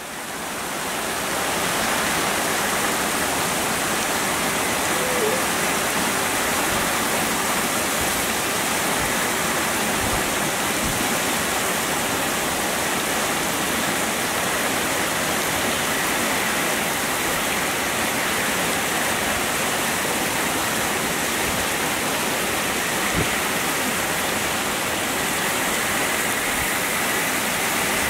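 Torrential rain pouring down in a dense, steady hiss that fades in over the first second or so.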